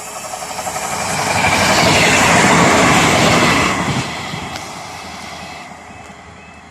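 A train passing close by on the line: a loud rushing swell that peaks in the middle, drops suddenly about four seconds in, then fades as the train moves away.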